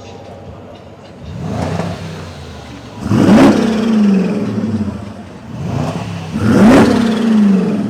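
Car engine revving hard in repeated blips: two big revs about three and a half seconds apart, each climbing sharply in pitch and falling back, with a smaller rev just before each.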